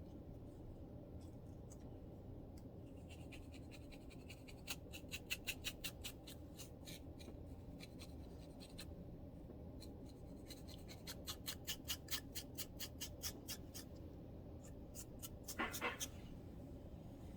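Scratching on a scalp with dandruff: quick rhythmic scraping strokes, about five a second, in runs separated by pauses, with a louder short burst near the end.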